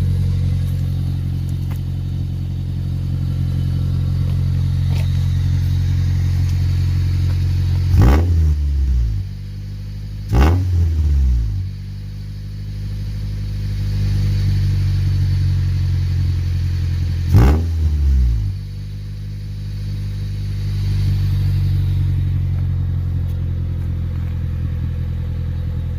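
Car engine idling through a freshly fitted aftermarket muffler, blipped three times: the revs rise sharply and drop back about a third of the way in, again shortly after, and once more past the middle.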